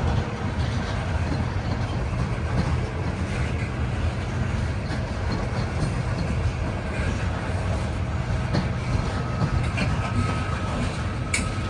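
Loaded coal train grinding up a grade past the listener: a steady rumble of steel wheels on rail under a low diesel locomotive drone, with a sharp click near the end.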